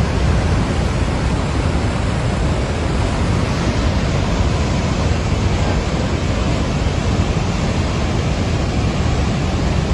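Floodwater from the Shishper Glacier outburst rushing in a loud, steady torrent with a deep rumble.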